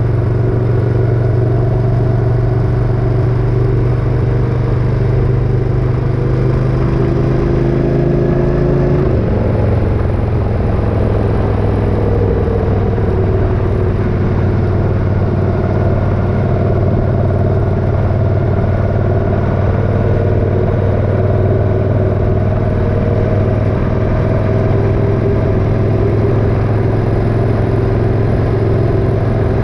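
Motorcycle engine running at steady road speed, its pitch creeping up, then an upshift about nine seconds in, after which it runs steadily in the higher gear.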